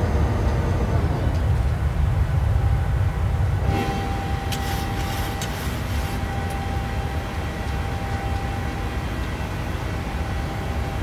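Steady low rumble of a Boeing 737 in flight, engines and airflow heard from inside the passenger cabin. About four seconds in, a thin steady tone and a few faint crackles join it.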